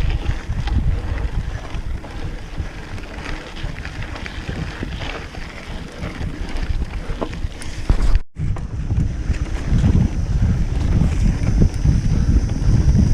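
Wind buffeting the microphone, a heavy rumbling noise with faint scattered clicks; the sound cuts out completely for a moment a little past halfway.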